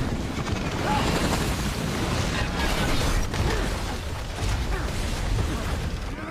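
Dense action-film sound effects: a heavy, continuous rumble with repeated bangs, crunches and metallic creaks, and a music score underneath.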